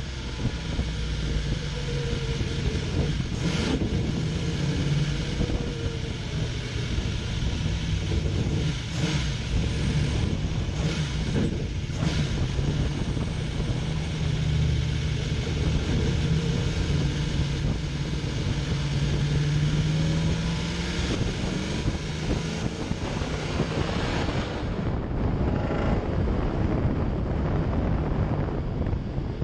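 Holden Torana SL/R 5000's V8 engine running at a steady road cruise, its note rising a little and then easing off past the middle, with wind noise over the microphone and a few short knocks.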